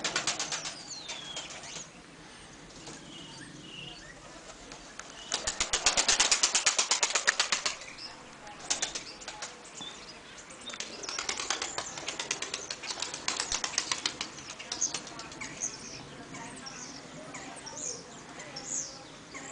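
Takla pigeons' wings flapping in repeated bursts of rapid beats, loudest about five to eight seconds in, with further bursts after.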